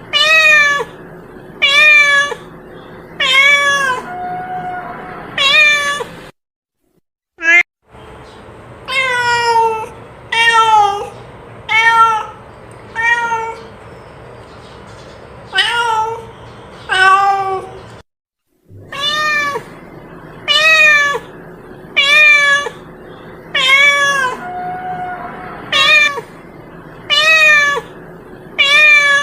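Cat meowing over and over, short calls about one a second, each bending up and then falling away; a cat lure sound used to call a lost cat. The run of meows cuts out to silence briefly twice.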